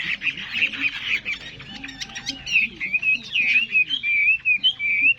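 Chinese hwamei singing: a fast chattering run at first, then clear whistled notes sliding up and down from about halfway through.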